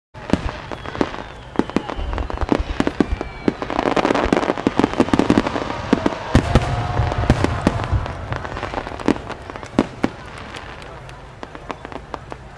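Starmine fireworks barrage: a rapid string of shell bursts and bangs with crackle and a few whistling glides, densest and heaviest in the middle, thinning out to scattered pops near the end.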